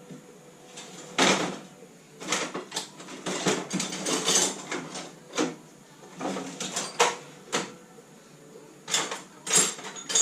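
Irregular knocks and clatter of hand tools and parts being handled during work on a classic Mini's engine, with one of the sharpest knocks a little over a second in and another near the end.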